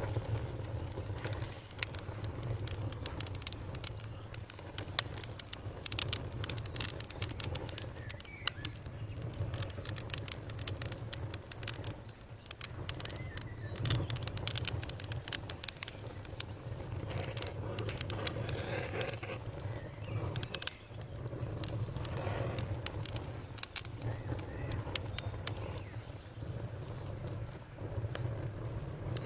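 Wood fire crackling with frequent sharp pops over a low, steady rumble, with birds calling in the background.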